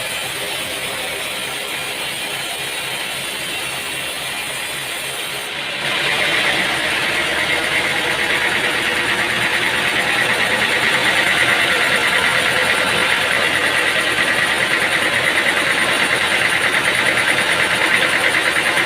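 Machinery running steadily with an engine-like sound. About six seconds in it switches abruptly to a louder steady machine sound with a fast, even pulsing.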